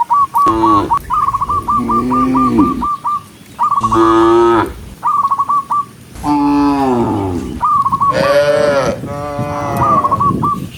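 Cows mooing, about five long low calls one after another, mixed with runs of short, quickly repeated high chirping notes.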